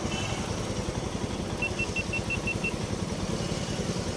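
Honda SP125 motorcycle's single-cylinder engine running steadily. About a second and a half in, a quick run of seven short high beeps sounds over it.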